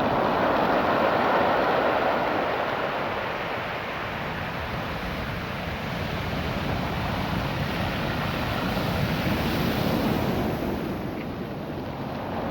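Ocean surf washing over a beach of small, smooth rounded stones, the stones grinding and rattling in the wash. The sound swells with a wave near the start and again about nine seconds in, easing off in between.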